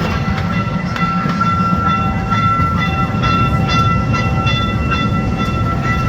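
Kemah Boardwalk ride train running along its track, heard from on board: a steady low rumble of wheels on rail with a steady high-pitched whine over it.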